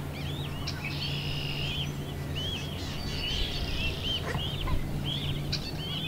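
Birds chirping: short, high-pitched arched calls repeated several times a second over a steady low hum.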